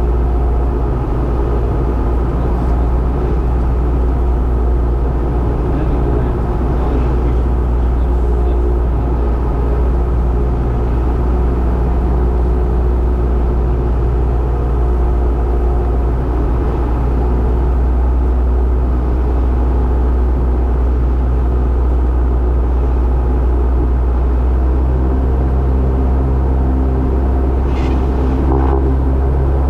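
Cessna 172's piston engine and propeller droning steadily on final approach. The engine note shifts slightly near the end, where a brief higher-pitched sound also comes in.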